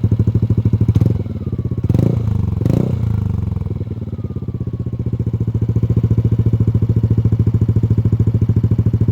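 Yamaha Aerox/NVX 155 scooter's single-cylinder engine idling through a Nob1 Titan Series aftermarket muffler with its silencer removed, giving a loud, bassy exhaust note. The throttle is blipped three times in quick succession in the first three seconds, then the engine settles back to a steady idle.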